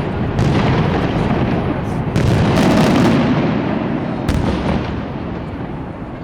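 Fireworks display: a dense, continuous rumble of bursting shells, with sharp cracking reports about half a second in, around two seconds in, and again after four seconds. It eases off slightly near the end.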